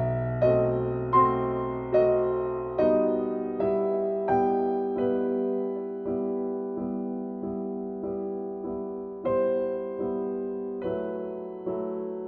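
Background music: a soft piano playing a slow, gentle melody, its notes struck at an even pace and fading.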